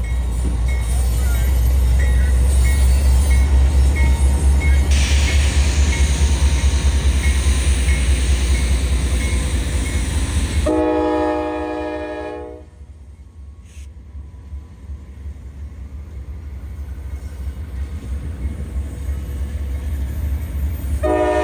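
Diesel locomotives of a CSX coal train passing close by: a heavy, loud engine rumble with a rushing hiss over it. About ten seconds in the locomotive horn blows a chord for about two seconds, the rumble drops away, and near the end the horn sounds again, signalling for the grade crossing just ahead.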